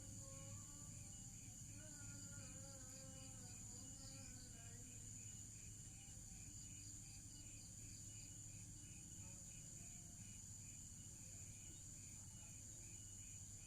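Faint background of insects chirping: a steady high hiss with a pulsing chirp about twice a second.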